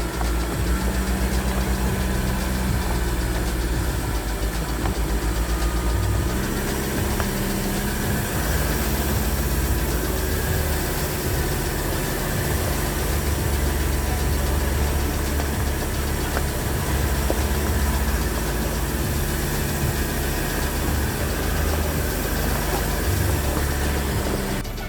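An engine running steadily and evenly, with a strong low-pitched hum.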